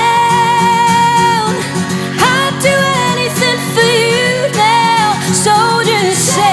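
Folk-pop song: a woman singing held, gliding melody lines over acoustic guitar and band accompaniment.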